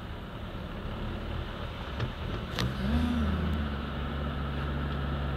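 Car engine running, heard from inside the cabin; about two and a half seconds in it picks up and runs louder and steadier as the car pushes on through deep floodwater.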